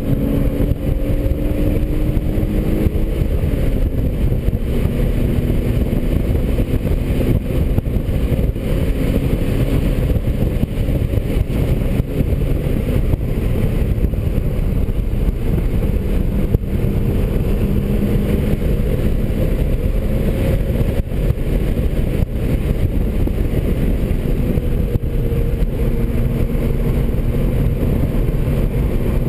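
2003 BMW 330i's 3.0-litre straight-six running hard at track speed, heard inside the cabin under a heavy rumble of wind and road noise, its note rising and falling as the revs change.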